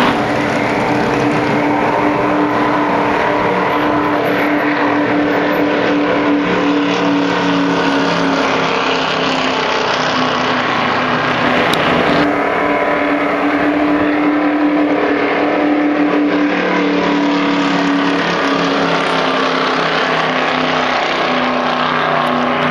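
V8 stock car engine running steadily at high revs at racing speed, with a brief change in the note about halfway through.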